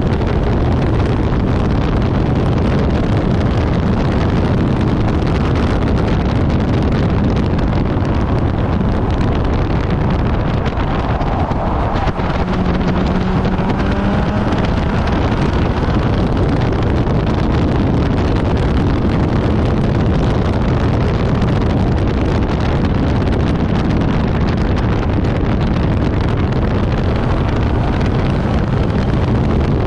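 Infiniti G37S's 3.7-litre V6 running hard at track speed, blended with heavy wind buffeting and road rumble on the onboard camera's microphone. Around the middle a brief pitched note rises through the noise.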